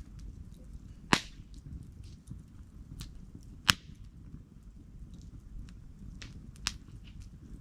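Wood campfire crackling: two loud, sharp pops about a second in and just before four seconds, a few smaller snaps later, and fainter ticks over a low, steady rumble of the fire.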